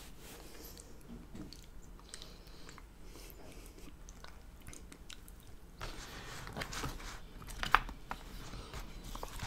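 Close-miked chewing and wet mouth sounds of a person eating lasagna. In the second half a metal fork scrapes and digs in the aluminium foil pan, with one sharp click near the end as the loudest sound.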